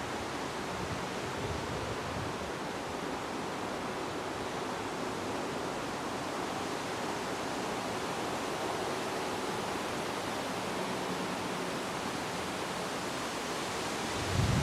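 Steady wind rushing outdoors: an even hiss with no gusts striking the microphone.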